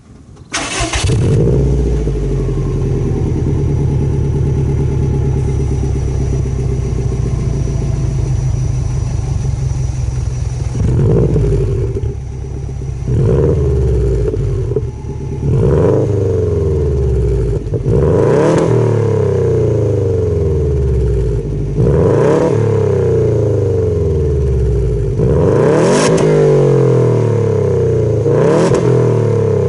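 Subaru Impreza WRX (GDA) turbocharged boxer engine with unequal-length headers, breathing through a Kakimoto Kai Regu.06&R rear muffler: it starts about a second in and idles with the uneven boxer rumble, then is free-revved in a string of quick blips every two to four seconds.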